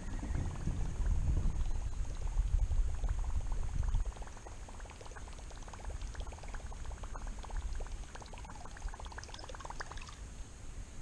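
Water sloshing close to the microphone for the first few seconds, then trickling and dripping in many fine quick ticks until near the end.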